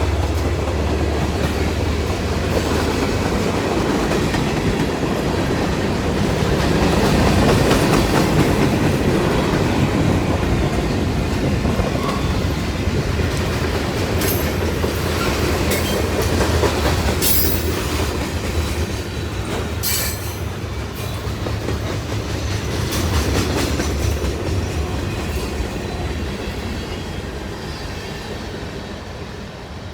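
CSX local freight train rolling past: a steady rumble and clickety-clack of car wheels over the rail joints. Brief sharp wheel squeals and clanks come in the middle, and the sound fades as the train moves on near the end.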